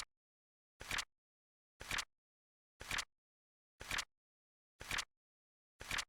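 Flip-clock flip sound effect ticking once a second: six short, even flips with silence between.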